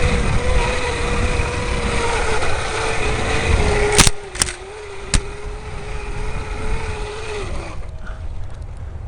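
Electric bike motor whining steadily under power over a low rumble of riding. There are three sharp knocks around four to five seconds in, and the whine cuts out near the end.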